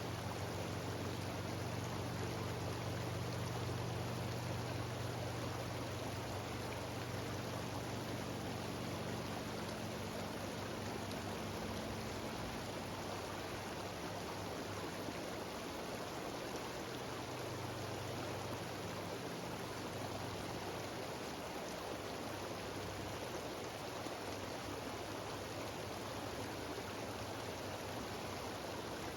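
Mountain waterfall cascading over rocks, a steady rushing of water. A low rumble underneath eases off about halfway through.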